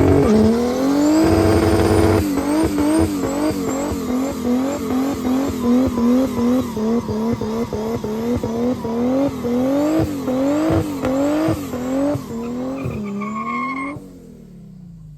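A car doing a burnout: tyres squealing under a revving engine, the pitch rising and falling about twice a second. It cuts off sharply near the end.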